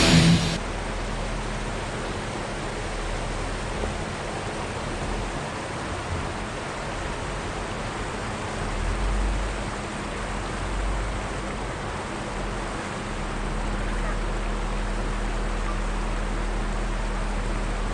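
Steady rushing water, like a mountain creek or waterfall, with the low steady hum of an idling vehicle engine underneath.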